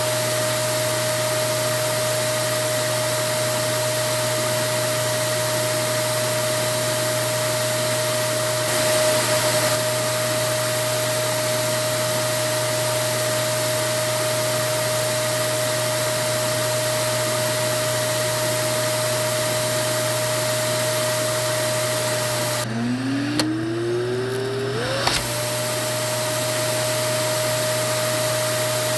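Vacuum cleaner running steadily: a constant airflow hiss with a high motor whine. About three-quarters of the way through, the hiss briefly drops away and the motor's pitch climbs back up over about two seconds before the steady running resumes.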